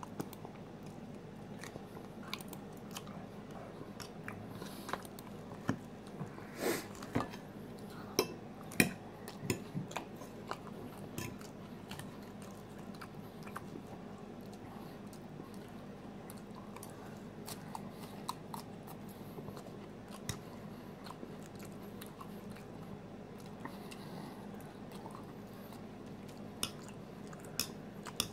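Close-up eating sounds: a bite into flaky meat-pie crust, then chewing with scattered small crunches and clicks, most of them in the first half.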